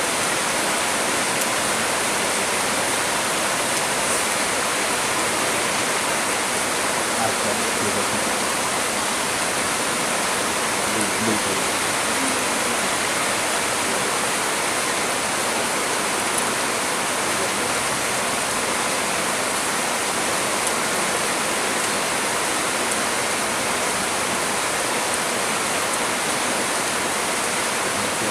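Heavy rain pouring steadily: a dense, even hiss with no breaks or lulls.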